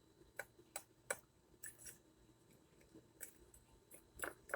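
A spoon stirring dry cookie mix of flour, cocoa and sugar in a container: faint, irregular scrapes and clicks of the spoon against its sides, with a couple of louder ones near the end.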